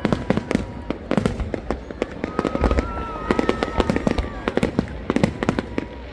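A fireworks display: rapid sharp bangs and crackles, several a second, with long thin whistling tones running beneath them.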